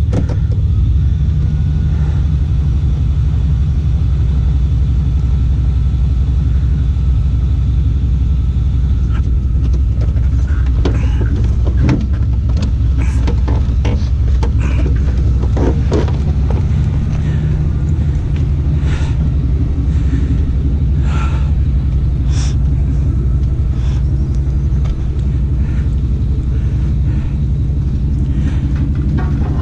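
A truck engine running steadily with a low rumble, with scattered knocks and clanks of metal now and then.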